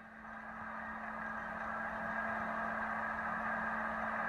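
Steady road and engine noise from a moving car picked up by a dashcam, growing louder over the first two seconds, with a constant low hum underneath.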